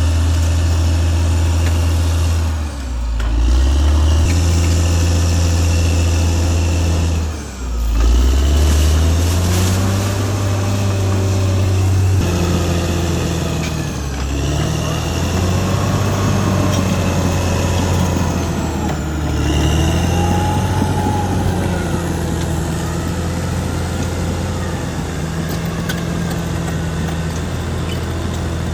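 Caterpillar D6R XL bulldozer's diesel engine working: a loud, steady low engine note that drops sharply twice in the first eight seconds and then shifts pitch up and down with the load. Higher wavering whines rise and fall over it in the middle stretch.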